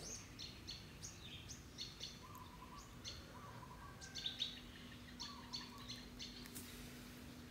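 Faint background bird chirps: short, irregular high calls several times a second, with a few brief whistled notes. A low steady hum comes in about three seconds in.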